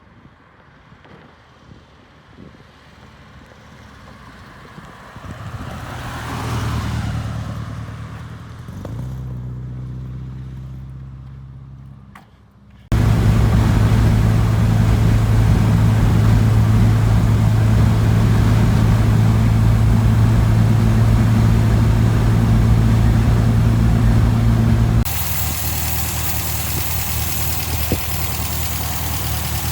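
1972 MGB's 1.8-litre four-cylinder engine. First the car's sound swells and fades as it drives past, with its pitch changing. Then, after an abrupt cut, the engine runs loud and steady, and its sound changes abruptly again near the end.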